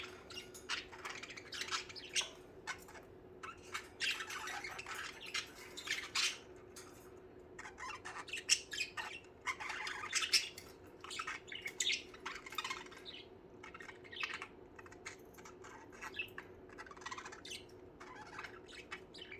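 A flock of budgerigars chirping and squawking, with many short, overlapping calls.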